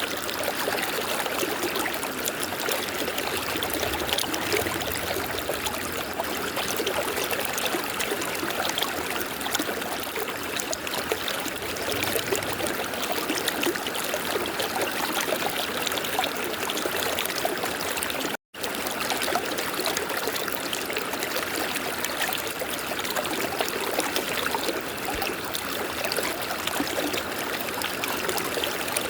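River water running steadily over rocks, with a dense, even rushing and trickling. The sound cuts out completely for a split second about two-thirds of the way through, then resumes unchanged.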